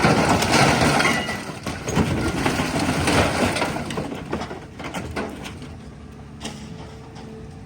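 Scrap metal crunching and cracking, with breaking glass, as an excavator tears into an old vehicle. The crunching dies away after about four seconds, leaving the excavator's engine running.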